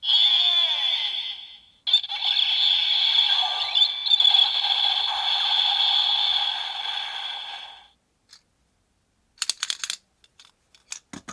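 Electronic sound effects from a toy transformation belt's small speaker, with a brief break near two seconds, running on until they fade out about eight seconds in. A few sharp plastic clicks follow near the end.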